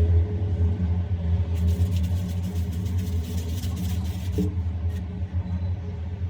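A large engine running steadily at an even speed, giving a low, constant rumble.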